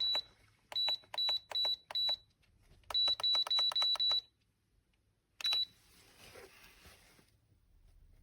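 Electric kettle base beeping as its buttons are pressed: about a dozen short, identical high beeps, first a steady run of five, then a quicker run of about six, then one more. A soft hiss follows the last beep.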